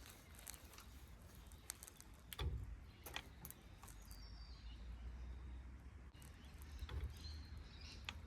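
Faint outdoor ambience: birds chirping now and then, a few sharp clicks and knocks in the first few seconds, and a low steady hum underneath.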